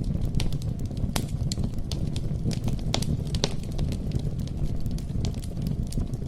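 Campfire crackling: a steady low rumble of burning wood with frequent sharp pops and snaps, a few louder ones around the middle.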